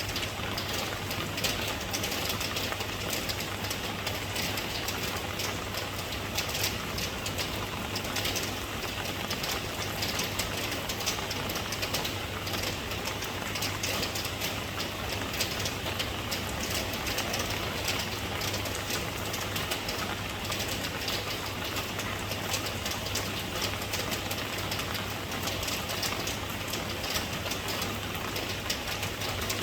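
Steady rain falling: a dense, even patter that keeps on without let-up, with a steady low hum underneath.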